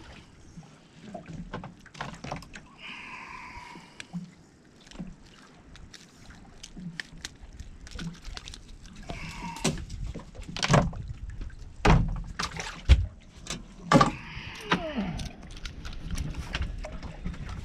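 Scattered knocks and clunks of gear and movement in a small fishing boat, with a few heavier thumps about two-thirds of the way through.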